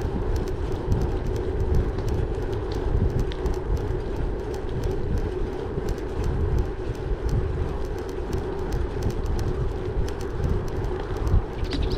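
Gravel bike rolling over a gravel track: a steady tyre rumble with a constant patter of small clicks and rattles, and wind buffeting the microphone.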